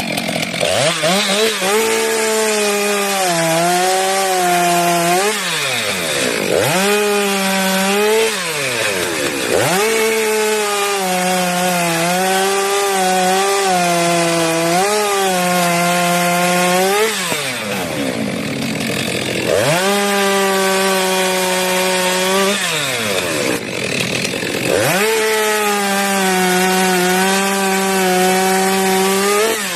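STIHL MS 462 two-stroke chainsaw running at full throttle, cutting through a tree trunk. The engine pitch sags slightly under load. Four times, the throttle is let off and the engine drops toward idle, then revs straight back up.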